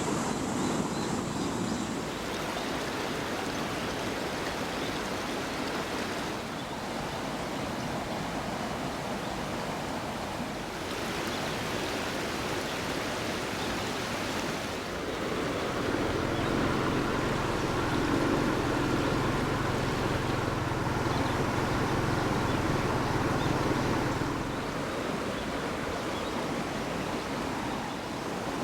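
Waterfall rushing, a steady even roar of falling water. A steady low hum joins for about eight seconds past the middle.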